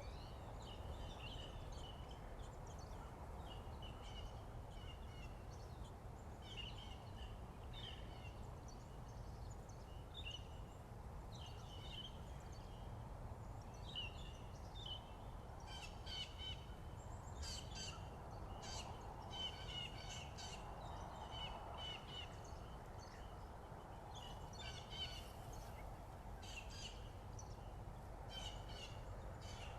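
Wild birds singing and calling in morning chorus: repeated short, high chirps and phrases, growing busier and sharper about halfway through, over a steady low background rumble.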